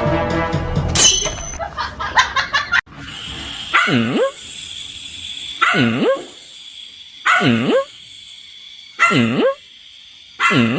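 Music with a quick run of clicks for the first three seconds, then after a sudden cut a dog barking five times, about every second and a half, each bark dipping and then rising in pitch.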